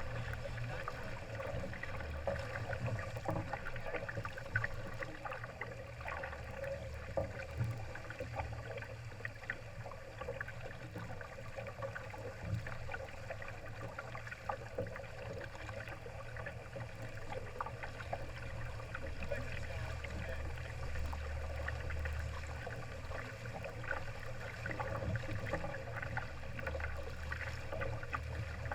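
Water rushing and gurgling along a Laser sailing dinghy's hull as it sails, with constant small splashes and a steady low rumble underneath.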